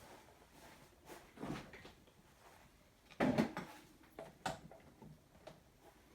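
A few scattered knocks and clatters in a small room, loudest in a short cluster about three seconds in, followed by a couple of sharp clicks.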